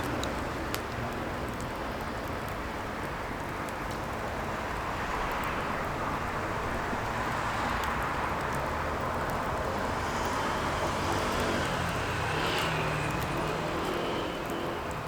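Firewood burning: a steady rush of flames with scattered small crackles and pops, one sharper pop about a second in.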